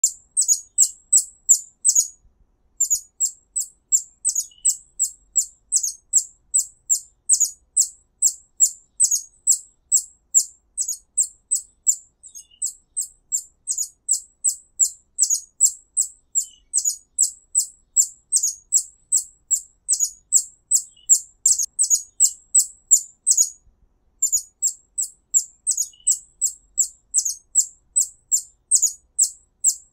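High, thin bird chirps repeating evenly, about three a second, with two short breaks.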